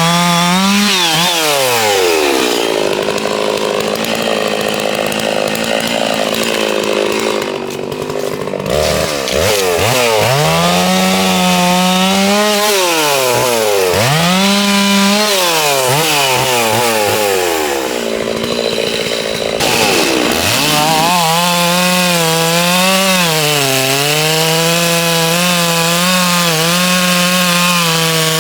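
Holzfforma G660 92cc two-stroke chainsaw cutting through a large tree trunk at high revs. Its pitch dips several times as the chain bogs under load in the cut and climbs back, then holds high with small wobbles through the last part.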